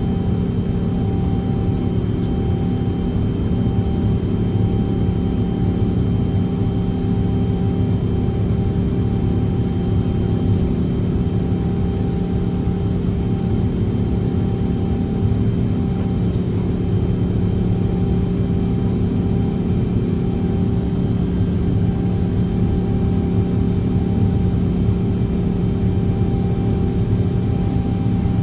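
Jet airliner's engines running steadily, heard from inside the passenger cabin: a constant low rumble with a few steady hums that hold the same pitch throughout.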